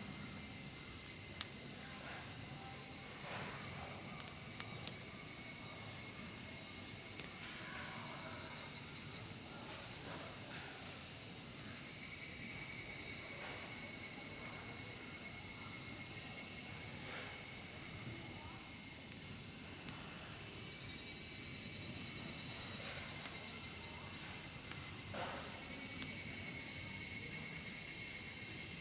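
A steady, dense chorus of summer insects chirring without pause, with a few faint, scattered crackles from the wood fire.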